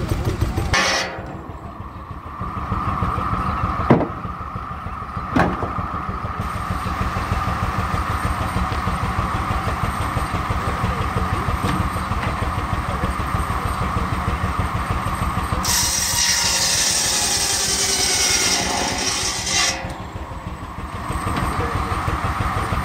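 Steam-engine-driven sawmill running: a low, fast, even beat with a steady whine over it, two sharp knocks early on, and loud hissing noise for about four seconds past the middle.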